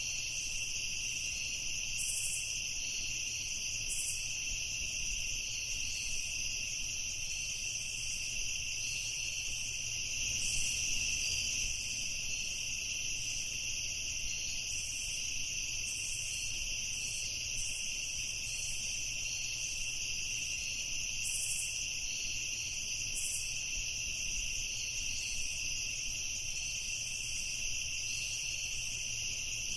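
Night insect chorus of crickets trilling continuously in a steady high drone, with fainter irregular chirps pulsing above it.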